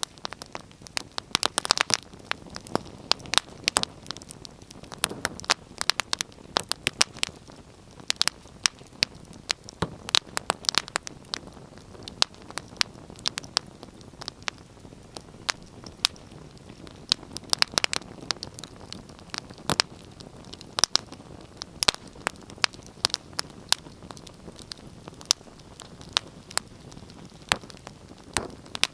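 Wood fire in a fireplace crackling, with frequent irregular sharp pops and snaps over a low steady hiss of burning.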